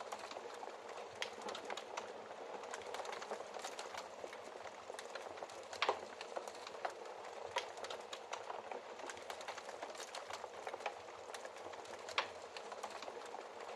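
Wood fire crackling steadily in a fireplace, with scattered small snaps and two louder pops, one about six seconds in and one near the end.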